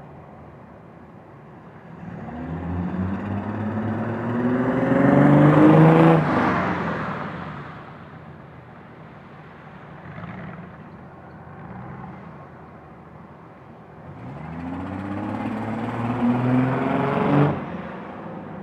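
1998 Ford Mustang's 3.8-litre V6, fitted with a cold air intake, idling and revved twice. The pitch climbs and falls back on the first rev, there are small throttle blips, and the second rev cuts off suddenly near the end. The owner hears an unexplained sound from the engine, not the intake's air noise, since the intake went on.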